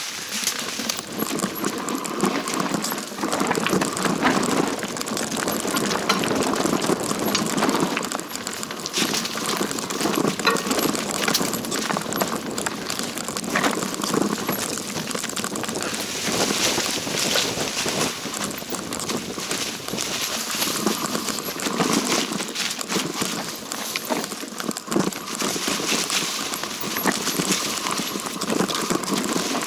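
Footsteps crunching and scuffing on a rough mountain trail: a continuous stream of irregular crunches and rustles.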